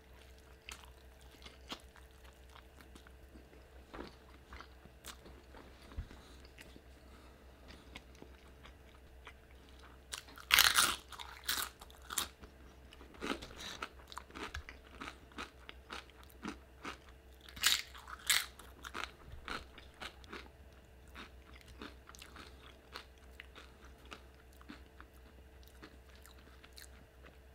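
Close-up mouth sounds of eating: soft chewing at first, then from about ten seconds in loud, crisp crunches of tortilla chips being bitten and chewed, several strokes a second at their height and thinning out toward the end.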